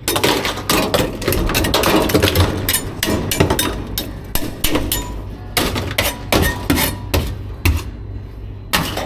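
Quick irregular knocks and clatters, hard objects striking, thick for the first few seconds and then spaced out, over a steady low hum.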